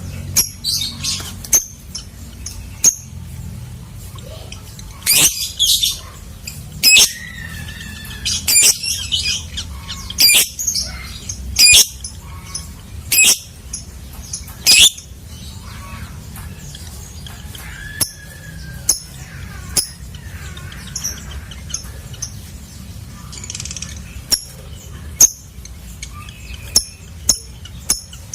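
Lovebird calling in short, shrill, high-pitched shrieks and chirps, loudest in a run of bursts through the middle stretch and fainter and sparser toward the end, over a steady low hum.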